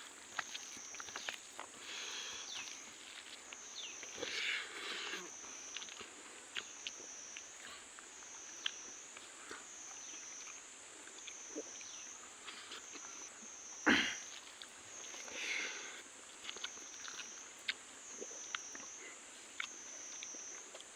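Eating: chewing and crunching fried fish, with many small clicks. Behind it, a steady high insect chorus swells and fades about every second and a half. A single sharp knock about fourteen seconds in is the loudest sound.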